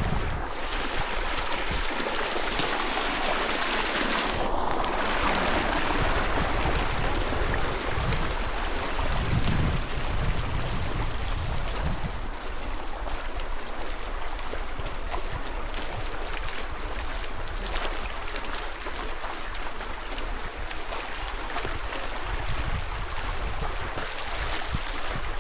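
Water rushing steadily in a river current, with low wind rumble on the microphone.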